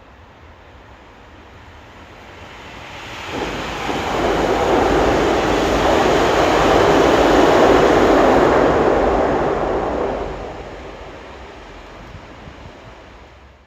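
A train passing by: its rumble builds from about three seconds in, is loudest in the middle, and fades away over the last few seconds.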